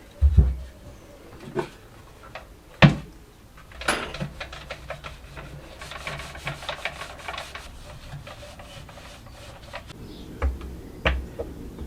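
Scattered knocks of tools and parts being handled, with a run of rapid light clicks about four seconds in.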